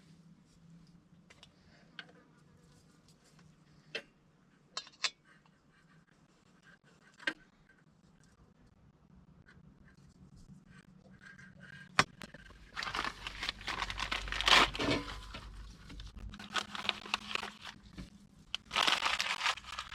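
Objects being handled: a few separate clicks and knocks, then from about thirteen seconds in a busy stretch of rustling, crinkling and scraping.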